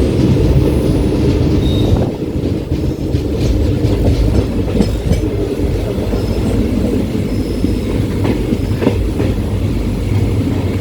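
Passenger train heard from inside a coach: a steady low rumble, with scattered clicks and knocks from the wheels and coach.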